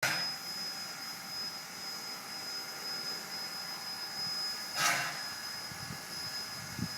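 Steam locomotive No. 136 hissing steadily with a thin high tone, with a short louder gush of steam about five seconds in.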